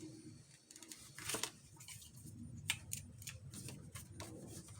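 Corners of a paper piece being clipped off: a handful of short, faint snips and clicks, the loudest about a second and a half in.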